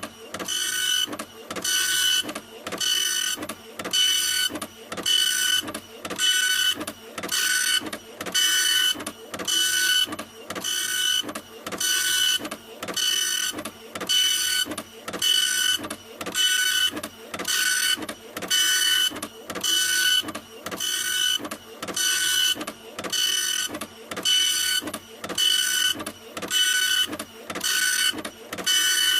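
A printer running, its mechanism repeating the same short stroke over and over in an even rhythm, each stroke carrying a high motor whine.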